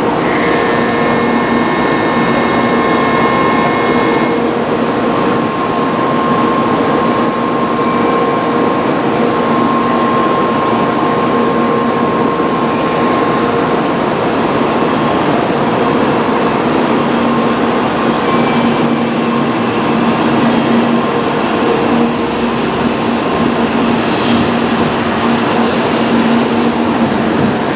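N700A Shinkansen train standing at the platform with a steady electrical hum and noise, a few high tones sounding briefly in the first seconds; about 24 seconds in it starts to pull away and its running noise grows brighter.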